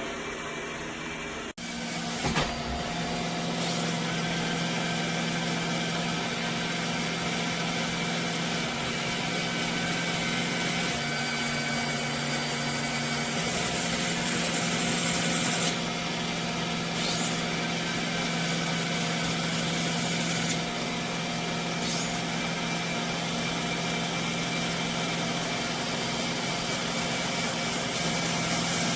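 iRobot Roomba Combo j7+ robot vacuum running, a steady motor hum over a hiss of suction, with the hum shifting in pitch a few times.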